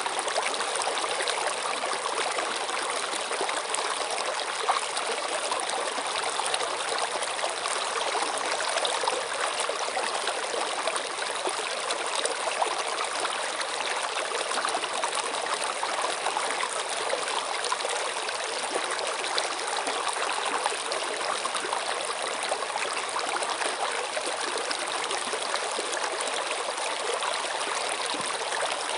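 Stream water flowing steadily, an unbroken rush with a fine trickling texture.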